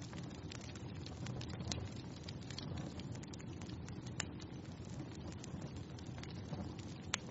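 Wood fire crackling in a fireplace: a steady low rustle of flames with frequent sharp pops, a louder pop about four seconds in and another near the end.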